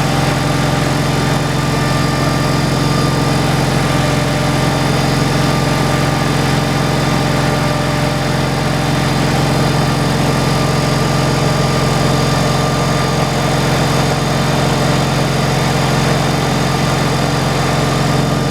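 An engine running steadily at a constant speed, with no change in load.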